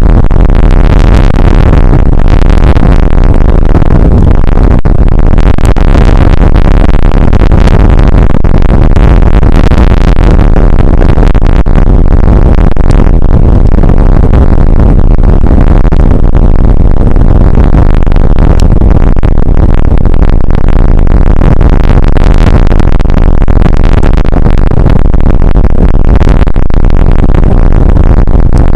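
Rain shower and wind on an outdoor weather camera's microphone: a loud, steady, distorted rushing noise, heaviest in the low end.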